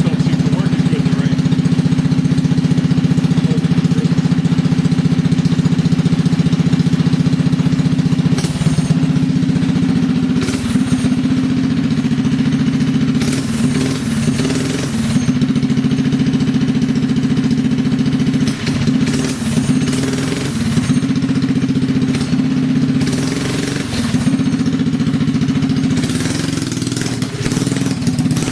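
A mini bike's small engine running steadily under way. Its pitch drops about a third of the way in and wavers after that. Several short bursts of hissing noise come and go over it.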